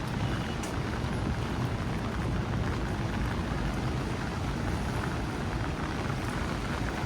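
Steady rain falling on a city street, with a low, steady rumble of traffic underneath.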